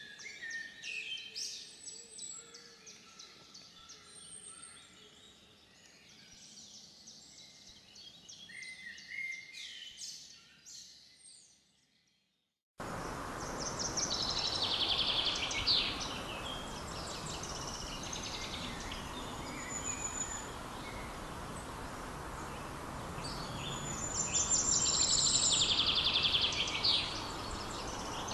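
Songbirds chirping and twittering, many short high calls and trills at once. The birdsong fades out about twelve seconds in. After a brief silence a louder birdsong recording starts abruptly over a steady background hiss.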